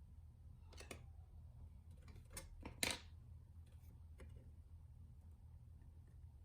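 Small tools and parts handled on a Nintendo Switch opened up for a fan replacement: a few light clicks and taps, the loudest about three seconds in, over a low steady hum.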